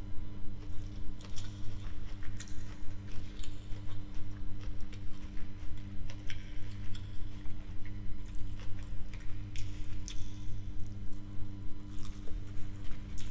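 Close-miked chewing of a mouthful of jollof rice: soft, wet, rhythmic mouth sounds with sharp little smacks and clicks every second or so, over a steady low hum.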